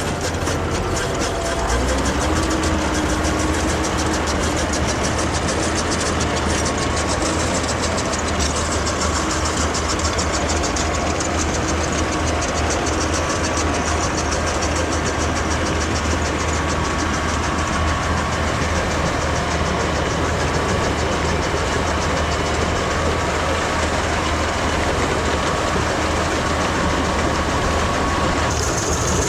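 Farm tractor's diesel engine running steadily, with a brief rise in pitch about two seconds in.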